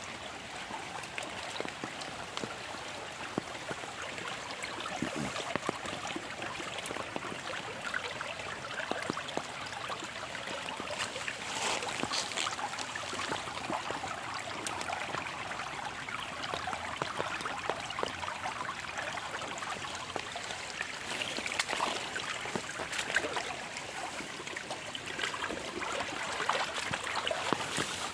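Rain falling steadily, a continuous hiss dotted with many small drips and spatters, with water trickling and running.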